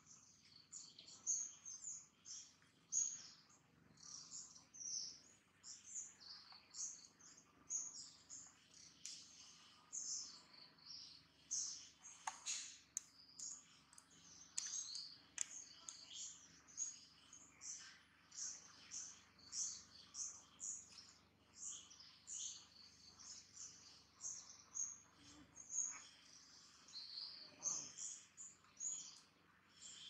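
Small birds chirping steadily in a rapid run of short, high chirps, with a few sharp faint clicks about halfway through.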